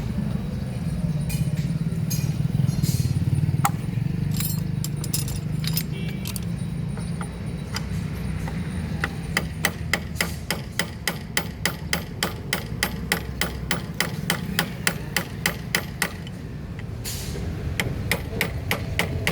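Metal hand-tool clicks from motorcycle engine work: a few scattered clicks, then from about halfway a steady run of about three to four sharp clicks a second that pauses briefly near the end, over a constant low hum.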